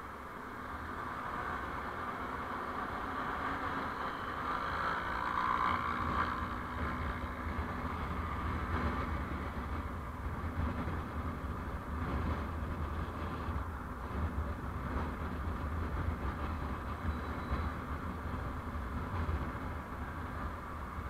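Steady road and engine noise of a vehicle on the move, a low rumble with a hiss above it, swelling for a moment about five seconds in.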